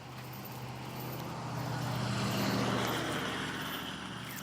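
A motor vehicle passing by, its engine hum and tyre noise growing louder to a peak about halfway through, then fading.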